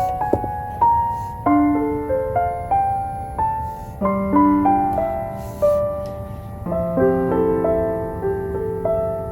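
Slow, gentle solo piano music, single notes and soft chords ringing out and fading. Under it is a faint crackle, as from a wooden-wick candle.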